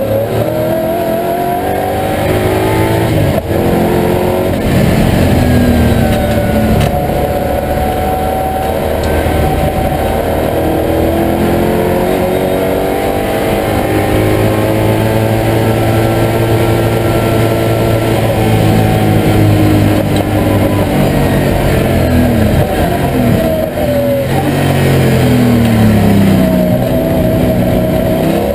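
A TVR Tuscan V8 race car's engine heard from inside the cockpit under racing load. The revs climb with brief drops at gear changes early on, hold high through a long pull in the middle, fall as the car slows and pick up again near the end.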